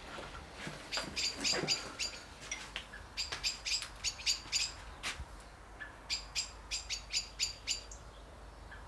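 A small bird chirping: short, high chirps a few a second, in three runs separated by brief pauses.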